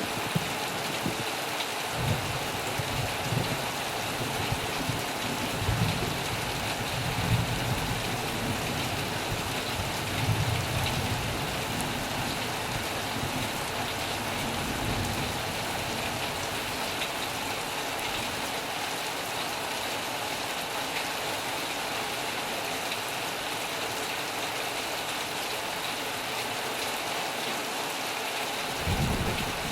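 Heavy rain beating steadily on a metal roof, with low rumbles of thunder through the first half and again near the end.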